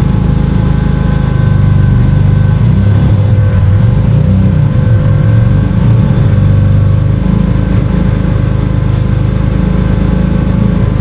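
Turbocharged Subaru EG33 3.3-litre flat-six engine running steadily, a loud, constant low drone.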